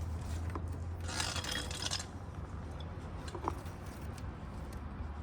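Rubbing and scraping of hands working the rubber intake boots of a motorcycle's carburetor intake, with a longer scrape about a second in and a small click past the middle, over a steady low hum.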